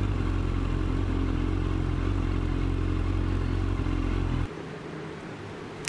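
Motorcycle engine running at a steady speed, then cutting off suddenly about four and a half seconds in, leaving a quieter rumble.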